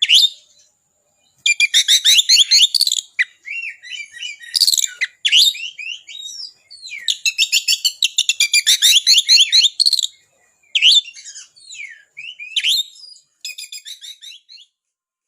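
Oriental magpie-robin (kacer) singing loudly: fast runs of sharp, rapidly repeated high notes and trills in phrases of a few seconds, with brief pauses between them. It is in full song (gacor), rich in mimicked phrases (isian).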